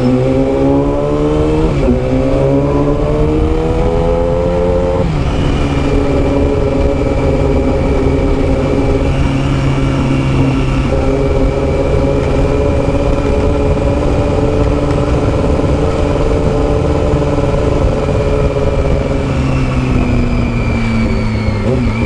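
Yamaha R6 sport bike's inline-four engine through a custom exhaust, accelerating hard with two upshifts in the first five seconds. It then holds a steady cruise and eases off slightly near the end.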